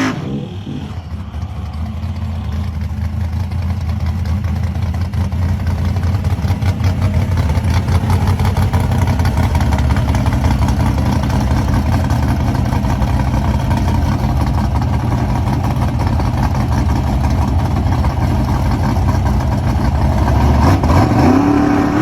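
Classic muscle car engine running at a steady, loud idle with a deep low rumble, getting louder over the first few seconds.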